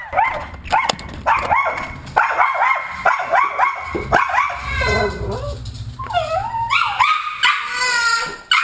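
A dog yipping and barking in quick short calls, then a longer wavering call about six seconds in.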